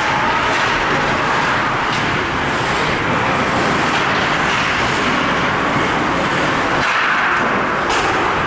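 Steady, loud ice hockey rink ambience with no distinct single event standing out.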